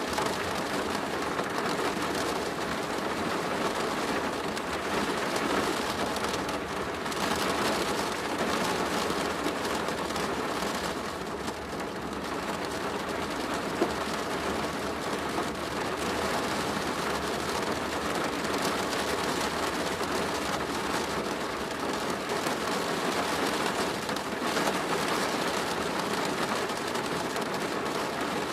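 Steady rain drumming on a plastic roof, a dense even patter with small swells in intensity.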